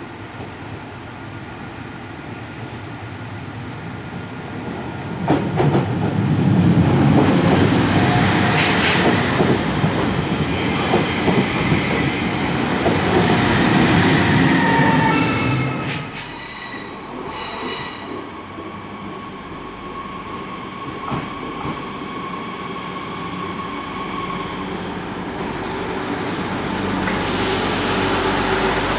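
Alstom Régiolis bi-mode multiple unit arriving and rolling past close by at low speed, with wheel squeal on the curving station tracks rising and falling in pitch as it passes. Near the end, a second railcar is heard running along the platform.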